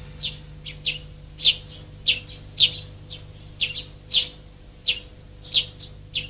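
Small songbirds chirping: short, high, separate chirps, roughly two a second and unevenly spaced, over a faint steady hum.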